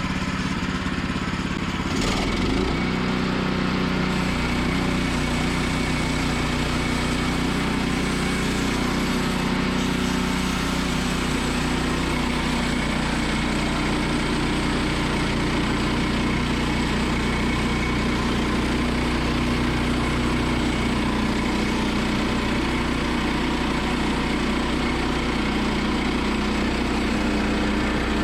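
Gas engine of a Woodland Mills bandsaw sawmill running steadily while sawing a log; its note shifts and gets slightly louder about two seconds in, then holds.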